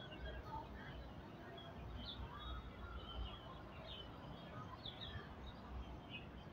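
Small birds chirping in the trees, short high chirps about once a second, over a low steady rumble.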